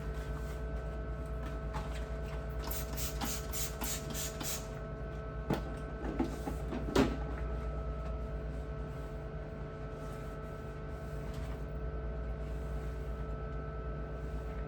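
Steady low hum with a run of about seven quick scrubbing strokes about three seconds in, followed by three sharp knocks, typical of wiping down and handling items while cleaning a refrigerator.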